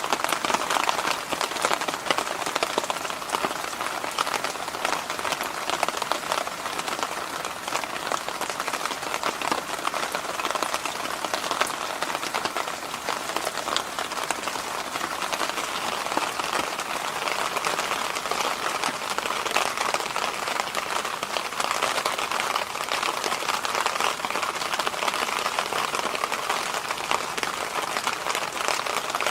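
Electric fan running steadily: a continuous airy rush with a fine crackly texture, strongest in the mid-range.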